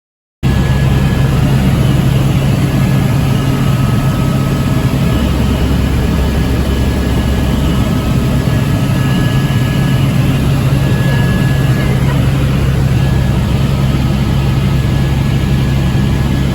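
Helicopter running in flight: a loud, steady drone with a strong low hum and a few faint steady higher tones. It starts abruptly just after the beginning and cuts off suddenly near the end.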